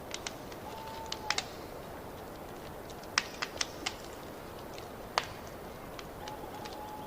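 Wood fire in a fireplace crackling: irregular sharp pops and snaps over a steady soft hiss, with a faint thin whistle twice, early on and again near the end.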